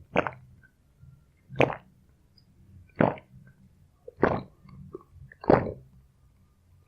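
A person gulping down a cold coffee drink in big swallows, five loud gulps about one every second and a quarter, with small wet mouth clicks between them.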